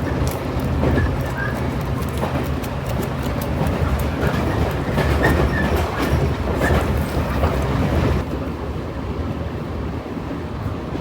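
A train running on the rails: a steady low rumble with many clicks and rattles from the wheels and carriage, becoming quieter and duller about eight seconds in.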